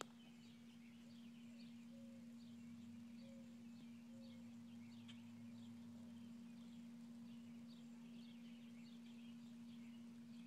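Faint outdoor ambience: small birds chirping in quick, repeated short notes in the background, over a steady low hum.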